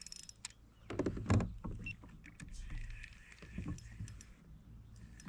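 A hooked bass splashing at the water's surface beside a kayak while it is reeled in on an ultralight rod, with scattered clicks and knocks of gear. The loudest splash-like knocks come about a second in.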